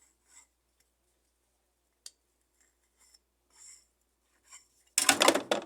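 A metal tool scraping and rubbing over washing-machine parts as grease is spread on them. There are a few faint light clicks and rubs, then a louder scrape of about a second near the end.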